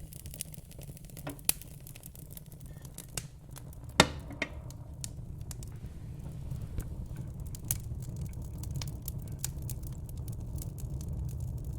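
Fire crackling: irregular sharp snaps and pops over a steady low rumble, with one loud pop about four seconds in.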